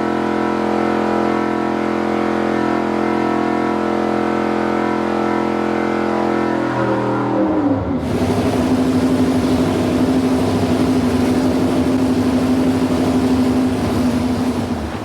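Chevy 383 V8 airboat engine on a dyno, running at a steady high speed. About seven seconds in, its pitch drops and it settles into a lower, rougher run.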